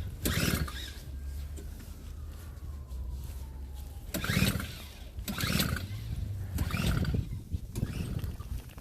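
Crunching scrapes in snow, each about half a second long, coming every second or so with a gap near the start, over a steady low rumble.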